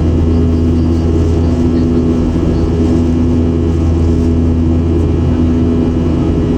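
Steady cabin drone of a Boeing 737-700 in flight, the sound of its CFM56-7B jet engines and airflow heard inside the passenger cabin: a deep, even hum with a constant tone over it.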